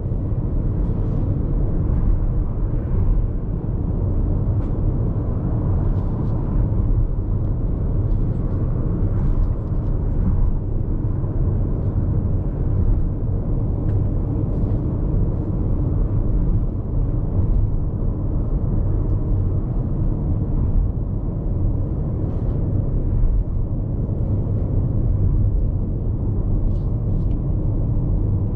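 Road and tyre noise inside the cabin of a Hyundai IONIQ 5 AWD battery-electric car at highway speed: a steady low rumble with occasional faint ticks and no engine note.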